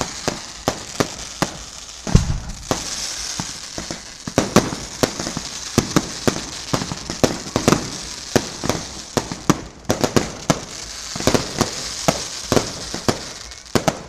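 Fireworks going off: a fast, uneven string of sharp bangs and pops over a crackling hiss, with one deeper boom about two seconds in.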